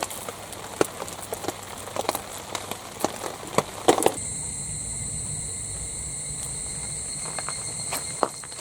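A run of small clicks and knocks, like gear being handled or footsteps. About four seconds in, it cuts to a steady, high insect drone, with a few more clicks.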